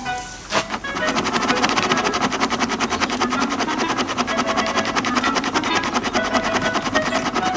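Honda Giorno moped scooter's small engine running with a fast, even beat. It dips briefly at the start, then picks up and runs steadily from about a second in.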